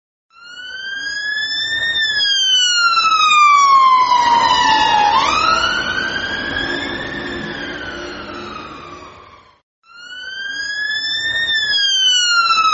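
Ambulance siren wailing in slow sweeps: its pitch rises, falls over a few seconds, jumps and rises again, swelling loud and then fading. It stops just before ten seconds in and starts over with the same rise.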